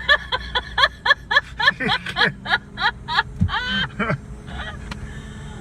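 A person laughing hard in a rapid string of short ha-ha bursts, about four a second, easing into a few longer drawn-out laughs.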